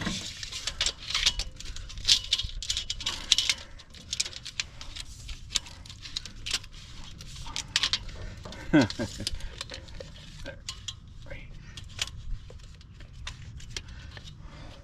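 Scattered metal clinks and taps, with many sharp ones in the first few seconds, from a steel tape measure and pieces of steel angle iron being handled and fitted against each other.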